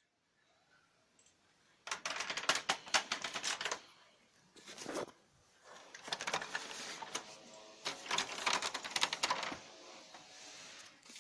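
Lexmark X364dn laser printer making a rapid clicking, grinding rattle in several bursts of one to two seconds each, the strongest about two seconds in and again around eight seconds in. This is the faulty noise the uploader traced to the duplex assembly.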